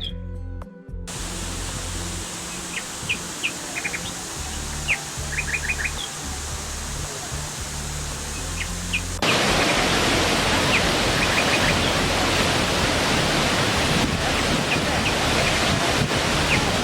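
Steady rain hiss with birds chirping briefly now and then, over soft background music; the rain becomes suddenly louder about nine seconds in.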